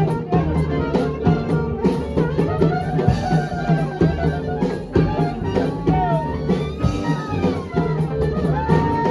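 Live swing band playing, a drum kit keeping a steady beat under held and sliding melodic lines.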